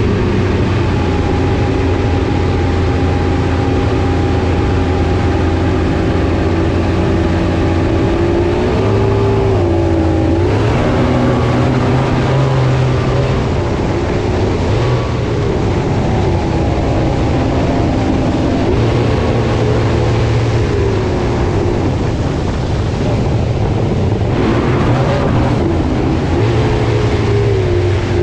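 Boat engine running under way, its pitch dipping and climbing again several times as the throttle changes, with a steady rush of noise underneath.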